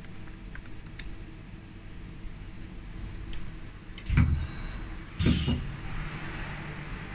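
Schaublin 110-CNC lathe running with a steady low hum, then two heavy mechanical clunks about a second apart, followed by a light hiss.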